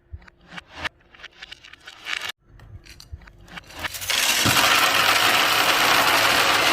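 Glass marbles clicking and clacking against each other and against a wooden Haba marble-run track. About four seconds in, a loud, steady rolling rush starts as the marbles run down the track.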